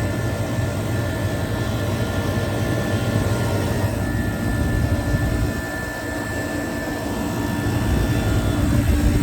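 Rooftop refrigeration condensing unit for a display freezer running steadily, compressor and condenser fan humming with a few steady tones, just started up and settling in.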